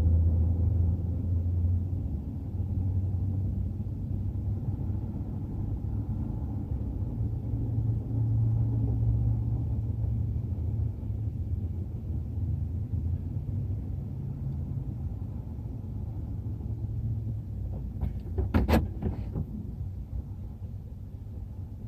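BNSF double-stack intermodal freight train rolling past a grade crossing: a steady low rumble that slowly fades as the last cars go by. A few sharp clicks come near the end.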